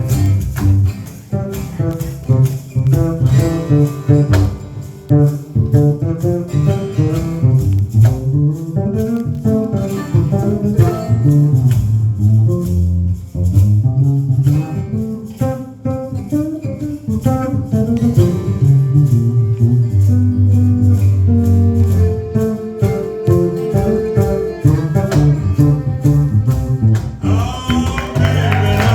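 Bass solo: a run of plucked bass notes, with a light guitar accompaniment above. Near the end the rest of the band and higher, sliding parts come back in.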